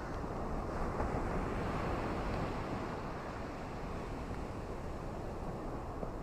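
Ocean waves washing on a beach with gentle rain: a steady rushing noise that swells louder about a second in, then eases back.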